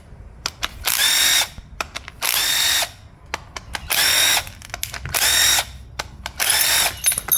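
Power drill run in five short bursts of about half a second each, with small clicks and clinks between the bursts.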